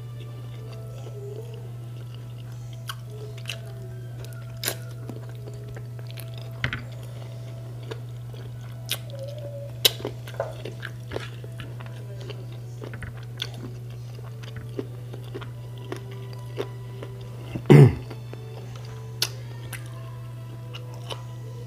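Close-miked eating: a man biting and chewing chicken held in his fingers, with many short wet mouth clicks and smacks over a steady low hum. There is one louder brief sound about three-quarters of the way through.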